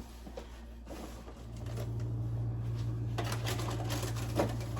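Plastic grocery packaging rustling and crinkling as it is handled, in a few short bouts, over a low steady hum that comes in about a second and a half in.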